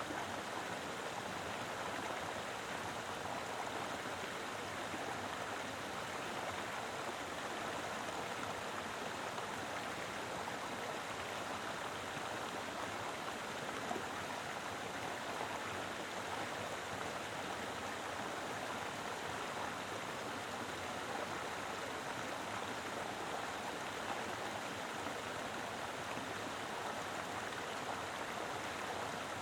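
A mountain river flowing over rocks: a steady, even rush of water.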